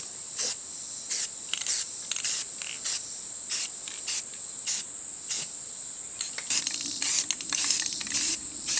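Aerosol spray paint can hissing in many short bursts, about one to two a second and closer together near the end. A steady high-pitched whine runs under it.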